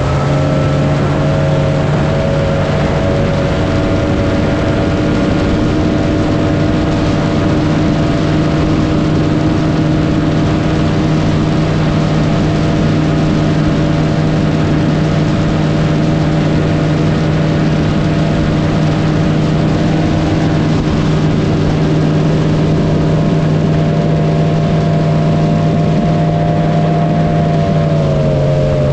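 An engine picking up speed and then held at a steady high speed for about half a minute, over a rushing hiss, easing off near the end.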